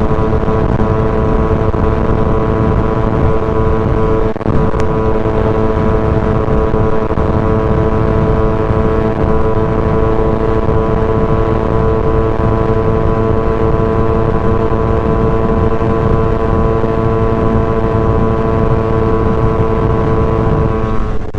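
Motorcycle engine running at high, steady revs at highway cruising speed, heard onboard with wind rumble on the microphone; the engine note dips briefly about four seconds in, then holds steady.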